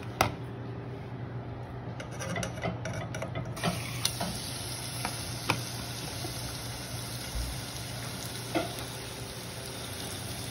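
Raw diced chicken frying in a little hot oil in a nonstick saucepan, a steady sizzle that fills out and gets louder about three and a half seconds in. A few sharp clicks come through over it.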